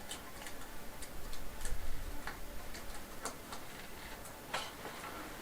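Light, irregular clicks and taps from a bamboo roll-up blind being handled and hung on its hooks.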